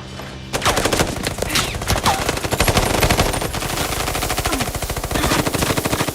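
Rapid gunfire in a film action soundtrack: a dense, fast stream of shots that starts about half a second in and keeps going, with a few falling whistling tones laid over it.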